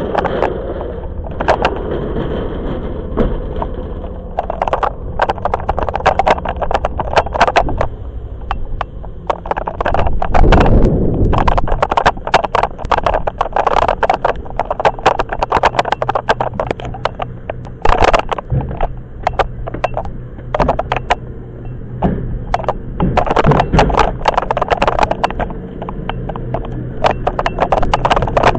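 Toyama Chiho Railway 10030-series electric train running, heard from inside the car. The wheels give dense clicking and clattering over the track, with a low steady hum and rumble beneath.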